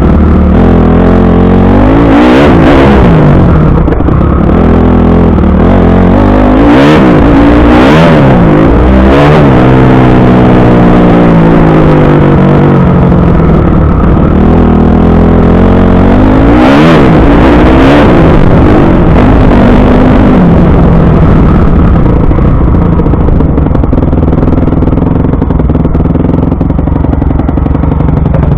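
Motocross bike engine revving hard and backing off again and again, its pitch climbing and dropping with the throttle and gear changes.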